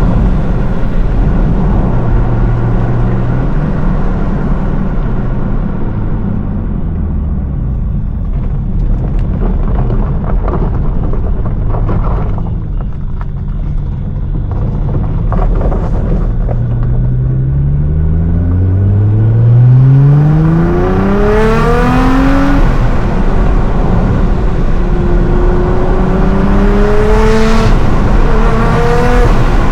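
Nissan R35 GT-R's twin-turbo V6, tuned to about 750 hp, cruising steadily, then pulled hard a little over halfway through: the engine note climbs quickly, drops at an upshift, and climbs again near the end.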